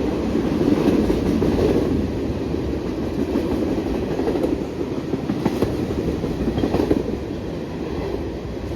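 Long freight train's cars rolling past directly underneath at about 30–35 mph: a steady rumble of wheels on rail.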